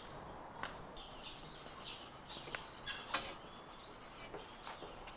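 Faint outdoor ambience with birds chirping in the background and a few sharp clicks.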